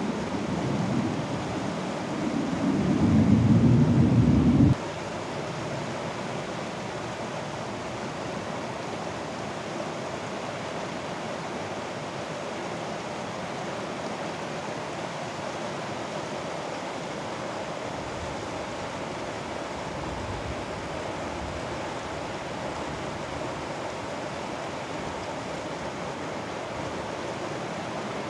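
Mountain stream water rushing steadily. For the first five seconds a louder low rumble lies over it, swelling and then cutting off suddenly.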